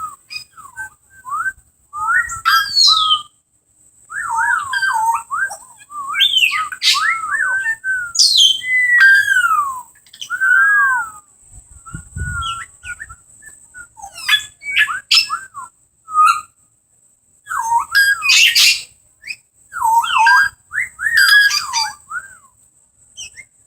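Parrots whistling: phrase after phrase of short whistled notes that slide up and down in pitch, with brief pauses between phrases.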